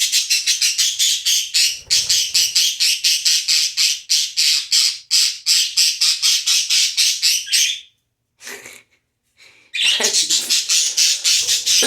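Pet parakeet squawking in a fast, even run of harsh calls, about five or six a second, stopping briefly about eight seconds in and starting again near the end. It is the bird's protest at being disturbed, as its owner reads it.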